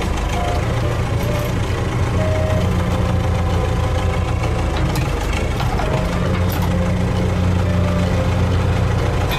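A vehicle engine idling, a loud steady low hum with mechanical noise above it.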